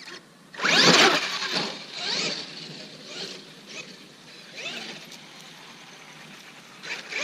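Traxxas X-Maxx RC monster truck's brushless electric motor revving in several bursts, its whine gliding up and down in pitch. The loudest burst is about a second in.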